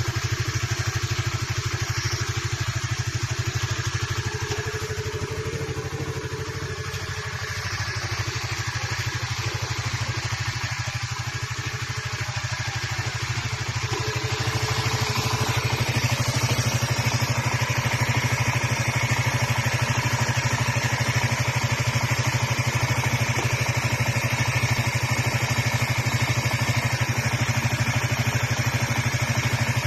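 An engine idling steadily, a little louder in the second half.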